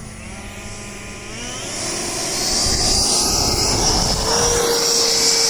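Electric ducted-fan jet (Freewing Stinger 90, 90 mm fan) throttling up for takeoff: the whine grows louder over the first couple of seconds, then holds steady at full power.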